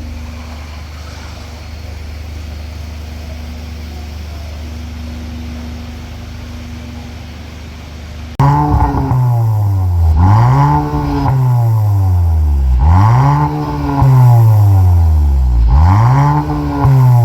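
Kia K5 1.6-litre turbo four-cylinder exhaust through an aftermarket valved dual exhaust: the engine idles steadily. About eight seconds in it gets suddenly much louder, and the engine is revved about four times, its pitch rising and falling each time.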